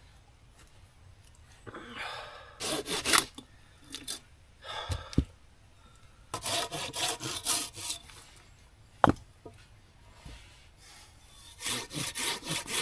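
Hand saw cutting through wood in three runs of quick back-and-forth strokes, about four or five a second, with a few single sharp knocks in between.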